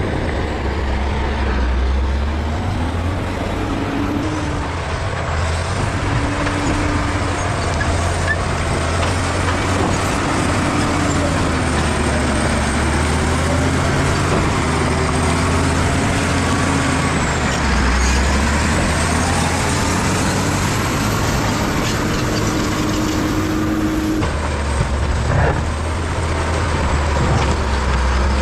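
Bulldozer's diesel engine running steadily while pushing soil, its pitch rising and falling a little as the load changes.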